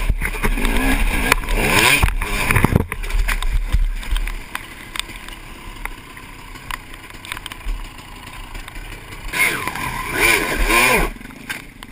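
Dirt bike engine revving in bursts, its pitch rising and falling, for the first few seconds and again near the end, with a quieter stretch of low running between.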